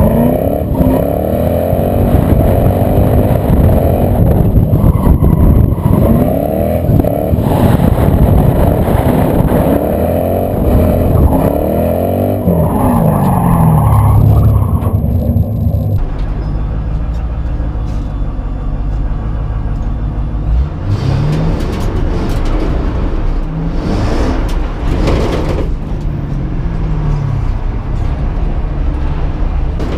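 Ford Mustang engine revving hard, its pitch climbing and dropping again and again as the car slides on loose dirt, over a heavy rush of dirt and wind noise. About halfway through the sound switches to inside the cabin, where the engine is quieter and more muffled, still rising and falling with the throttle.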